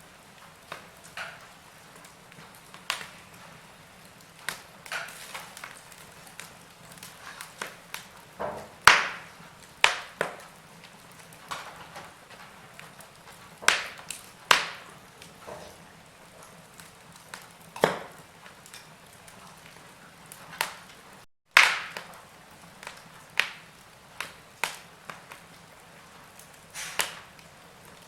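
Wood fire in a fireplace crackling: irregular sharp pops and snaps, some loud, over a faint steady hiss. The sound cuts out for an instant about two thirds of the way through.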